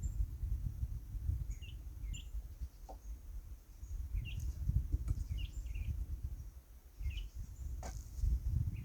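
Wind rumbling on the microphone, with a small bird giving about ten short, high chirps scattered through it.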